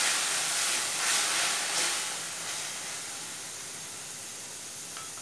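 Tomato purée sizzling in hot oil in a kadai. It is stirred with a wooden spatula, with swells about one and two seconds in, then settles to a steady, softer hiss.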